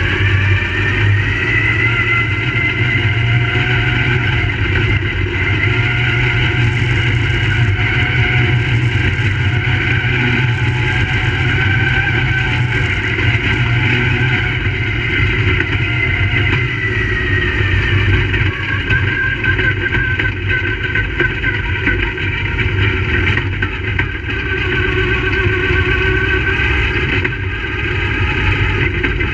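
Crate late model race cars' V8 engines running at speed, the engine pitch rising and falling every few seconds.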